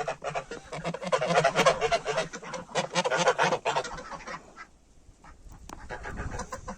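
A flock of domestic geese honking and cackling, many calls overlapping, thinning out about four seconds in.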